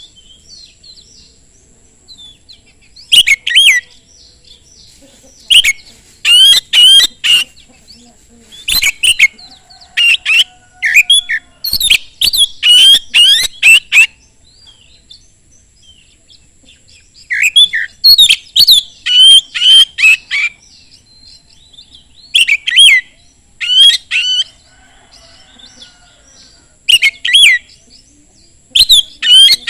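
Oriental magpie-robin (kacer) singing loud, rapid phrases of varied whistled notes in repeated bursts with short pauses between them. A faint steady high tone runs underneath.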